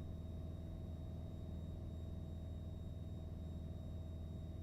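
Piper PA-28's piston engine and propeller droning steadily in flight, heard as an even low hum inside the cockpit, with a faint steady whine above it.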